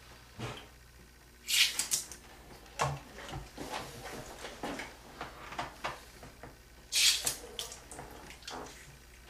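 Water squirted into an ear in short spurts to flush out earwax, splashing and dripping: two stronger gushes, about a second and a half in and about seven seconds in, with smaller splashes between.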